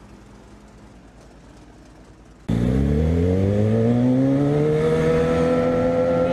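A faint steady hum, then, about two and a half seconds in, a sudden cut to a loud vehicle engine accelerating, its pitch rising steadily and levelling off.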